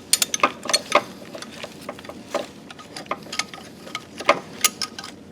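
Scattered, irregular metal clicks and clinks of hand tools on bolts while the motor mount and alternator bracket are being set and tightened.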